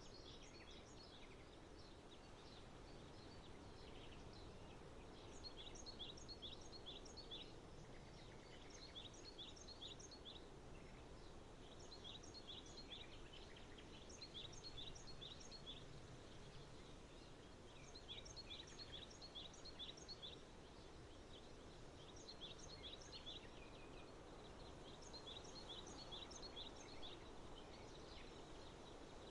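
Small birds chirping faintly in short clusters of quick, high notes that repeat every couple of seconds, over a low, steady background rumble.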